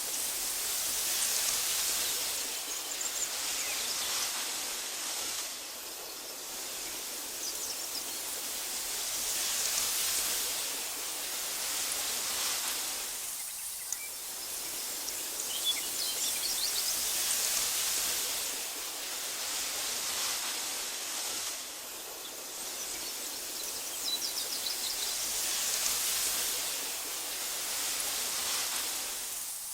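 Breeze rustling through tall meadow grass, swelling and easing in gentle gusts every few seconds. A few faint, high bird chirps come through now and then.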